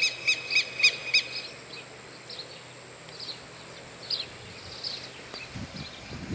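Birds calling outdoors: a quick series of about five repeated notes in the first second, then scattered short chirps, over a steady high-pitched insect hum.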